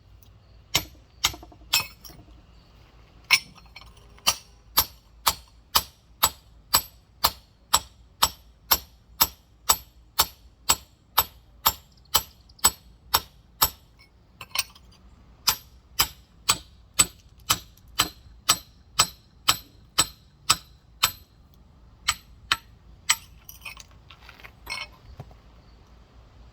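Rock hammer striking a large geode in steady, sharp clinking blows, about two a second, to crack the stone open. The hammering pauses briefly about two seconds in, again around fourteen seconds, and for a couple of seconds past twenty-one seconds.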